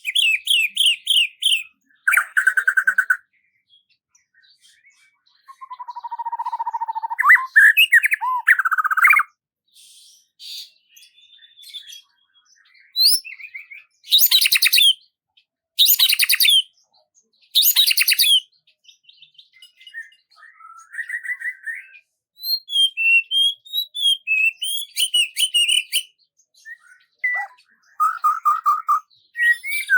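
Songbird song: a run of varied chirps, trills and buzzy phrases with short pauses between them, the loudest being three trilled phrases about two seconds apart midway through.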